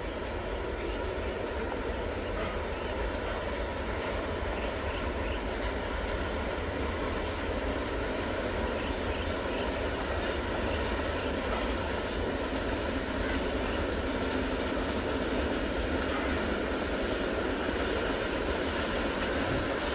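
Freight train hauled by a diesel locomotive running past at a distance: a continuous rumble of engine and wheels that grows slowly louder.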